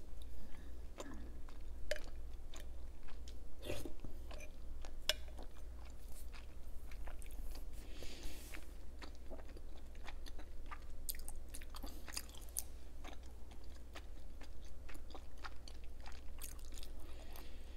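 Close-miked chewing of a chewy food, likened to Korean rice cake: irregular wet mouth clicks with a few small crunches.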